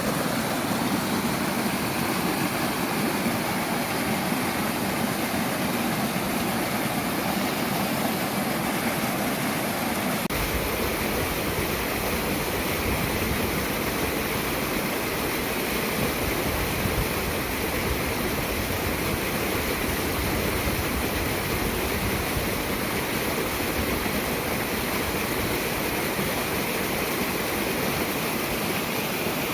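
Mountain stream water rushing over rocks, a steady, even rush that takes on a deeper rumble about ten seconds in.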